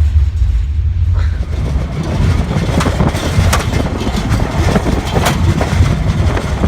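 Railway train in motion heard from aboard a caboose: a heavy, steady low rumble, with sharp clicks and rattles joining in from about two seconds in.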